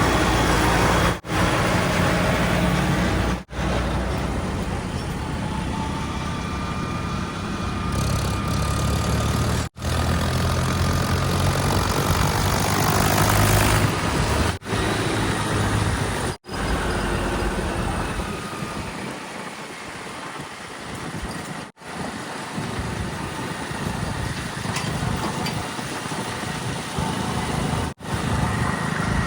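Heavy diesel engines of earthmoving machinery running and working under varying load, with the sound cutting out briefly several times.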